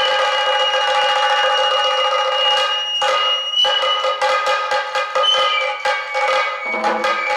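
Kagura festival music: a high bamboo flute holds long piercing notes over a steady pitched drone, and from about three seconds in, rapid drum strokes join in a quick rhythm.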